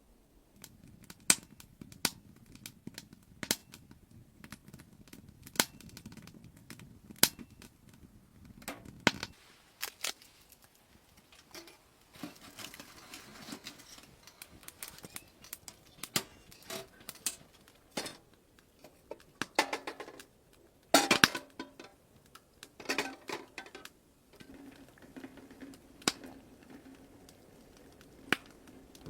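Irregular sharp clicks and pops, one every second or so, some loud, with two short flurries of rattling knocks about two-thirds of the way through.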